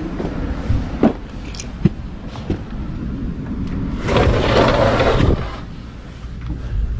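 Wind rumbling on the microphone, with a few sharp clicks and a louder rush of noise about four seconds in.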